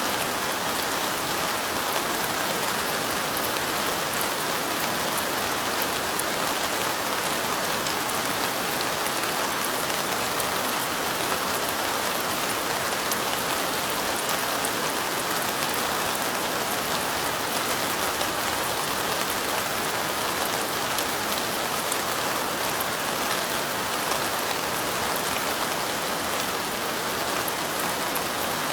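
Steady rain falling: an even, unbroken hiss with fine drop ticks throughout.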